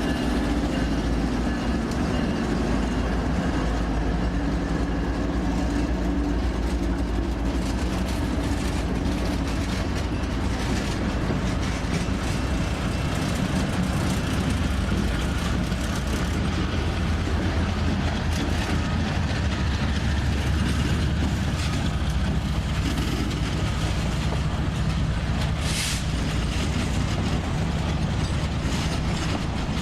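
Train cars rolling past at a steady pace, a continuous rumble with wheels clicking over the rail joints.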